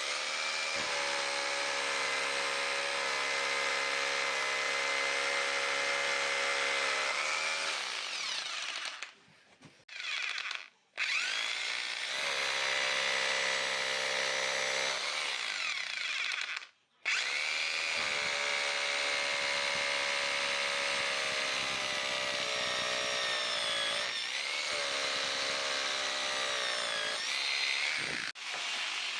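Electric drill boring into old brick in several long runs at a steady pitch, stopping briefly about nine, eleven and seventeen seconds in and again near the end.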